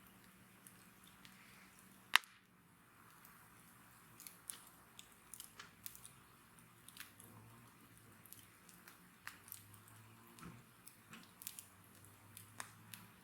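Wood bonfire crackling: scattered sharp pops and snaps, with one much louder pop about two seconds in and more frequent crackles after that.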